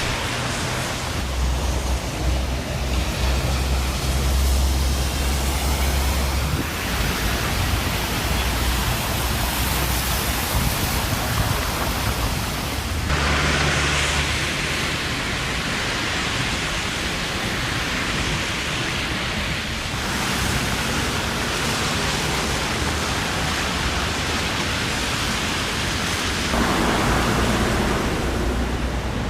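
Heavy rain and rushing floodwater: a dense, steady rush of noise that shifts in tone every several seconds.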